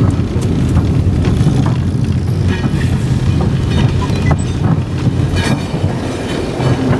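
Small rail vehicle moving slowly along the track: a steady low engine drone with scattered knocks and clanks of the wheels on the rails.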